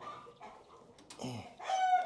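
Chickens clucking, with a rooster crowing loudest near the end.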